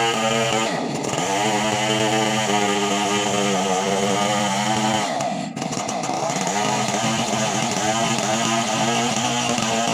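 Chainsaw engine running at high revs, its pitch dipping briefly twice, about a second in and again around the middle.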